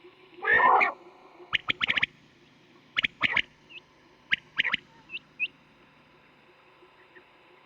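Common quail calling: a short throaty burst, then groups of sharp, clipped high notes about a second apart, with faint small chirps between them.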